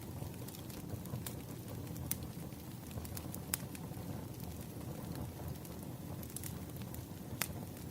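Wood fire crackling: a steady low rumble of burning logs with scattered sharp pops, the loudest about seven and a half seconds in.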